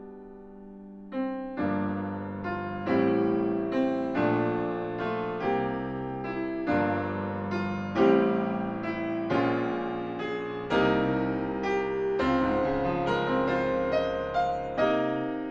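Solo piano playing, notes and chords struck one after another and left to ring; after a quiet first second the playing grows louder.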